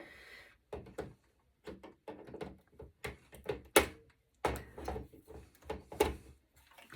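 Irregular knocks, clicks and short scrapes of hand tools and metal parts being handled while a server circuit board is taken apart, with a busier run of clunks and scraping near the end.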